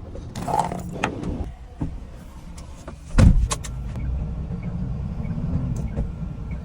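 Vehicle sounds: several clicks and knocks, a heavy thump about three seconds in, then a steady low engine rumble.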